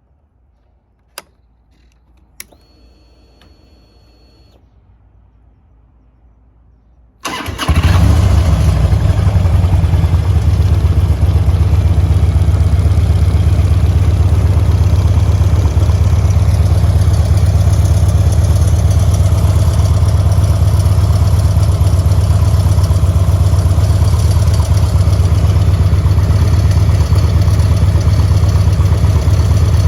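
Two sharp clicks and a brief high whine of about two seconds, then about seven seconds in the 2006 Harley-Davidson Road Glide's 1450 cc V-twin, breathing through S&S oval mufflers, starts and settles straight into a steady, loud idle.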